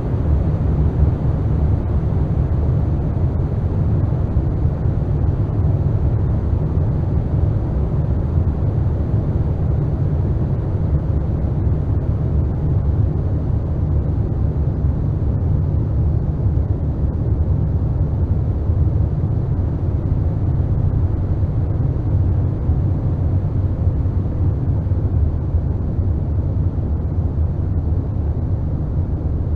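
Loud, steady, deep rumbling noise with no tune or beat and little hiss above it: a dark-ambient drone in an apocalyptic noise composition.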